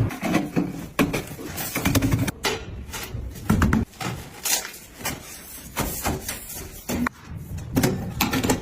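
Irregular knocks, clicks and thuds of building work, like parts being handled and fitted during a fireplace installation.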